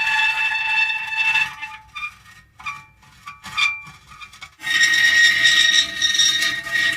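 Metal creaking: a long, high-pitched drawn-out squeal, then a quieter stretch of short squeaks, then another long squeal starting about two-thirds of the way in.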